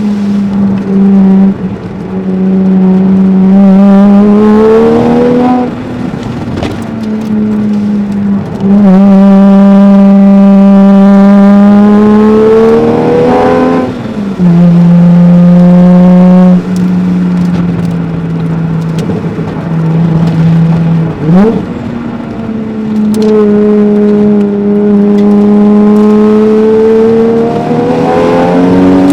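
Toyota 1JZ-GTE twin-turbo inline-six heard from inside the cabin, pulling up through the revs in several long accelerations, each ending in a sudden drop in pitch as the driver shifts or lifts, with a steadier stretch at lower revs in the middle.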